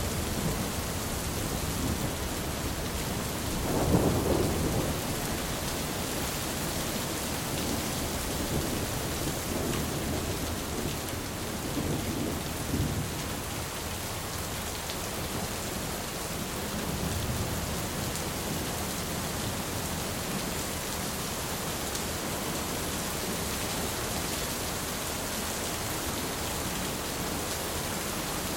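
Steady heavy rain with rolling thunder: a low rumble dies away just after the start, and a short rumble swells at about four seconds. Smaller, fainter rumbles follow around twelve and seventeen seconds.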